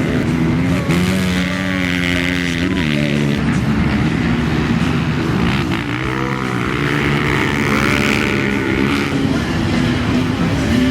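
Race ATV engines revving, the pitch rising and falling again and again as the throttle is worked on and off.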